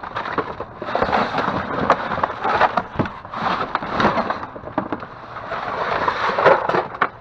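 Trash being rummaged through in a dumpster: loud rustling and crackling of bags and boxes, with scattered knocks as items are shoved aside.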